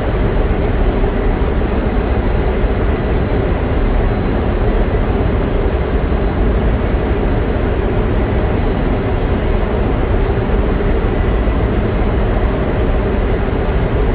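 Loud, steady drone of running diesel generator machinery, with a few faint high whines over it and no change throughout.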